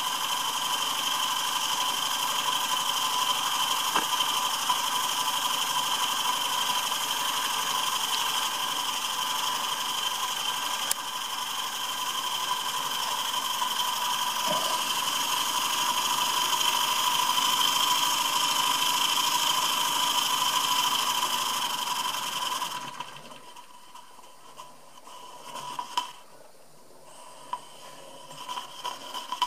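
Perseus model steam engine, run on steam from a Stuart 501 boiler, running steadily at speed, then stopping suddenly about 23 seconds in, leaving only a faint sound with a few clicks. The engine is new and still being broken in, and still a little stiff.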